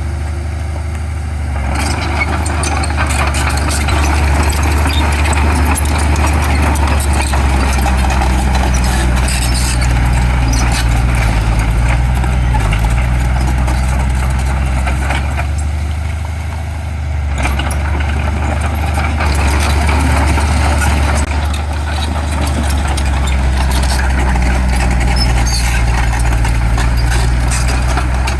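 Heavy diesel engine of construction machinery running steadily, with a dense rattling clatter over it. Both ease off briefly near the start and again about sixteen seconds in.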